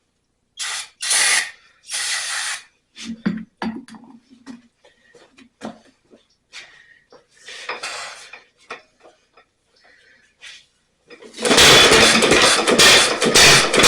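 A few short sprays of priming fuel hiss into the 1927 Ottawa single-cylinder stationary engine, with a few metallic knocks. About eleven seconds in, the engine suddenly fires and runs loud with rapid, even beats.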